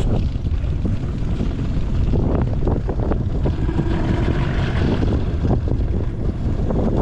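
Strong wind buffeting the microphone in a continuous low rumble, with a few short knocks scattered through it.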